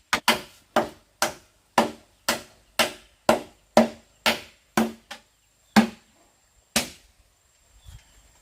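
Chopping strokes on wood, about two a second and evenly paced, each with a short hollow ring; they stop about seven seconds in.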